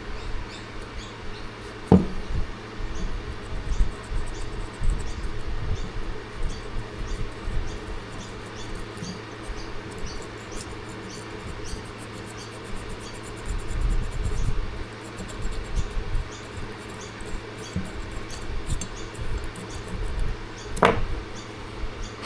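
Light metal clicks, scratches and handling noises from hand-tool work on chainsaw engine parts, over a steady low hum. Two sharper clicks come about two seconds in and near the end.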